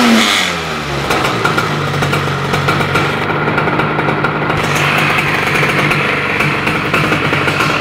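Two-stroke RS moped engine with a Barikit 70cc cylinder kit and a GP2 expansion-chamber exhaust with Pro Race silencer: the revs fall away right at the start and it settles into a steady idle.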